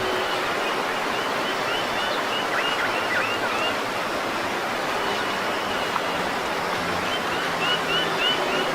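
A bird calls a quick series of short whistled notes, about four a second, about two seconds in and again near the end, over a steady rushing hiss.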